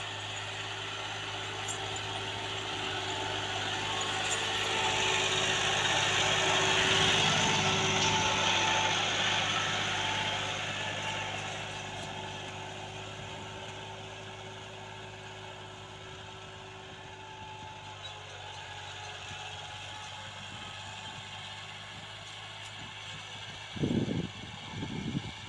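Massey Ferguson 260 Turbo tractor's diesel engine running steadily. It grows louder over the first seven seconds or so, then fades away. A few brief thumps come near the end.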